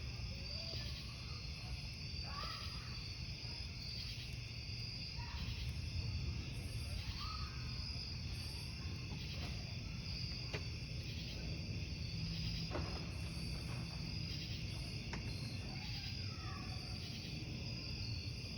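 Crickets chirping in a steady rhythmic chorus, with a wood campfire crackling now and then in a few sharp pops over a low rumble.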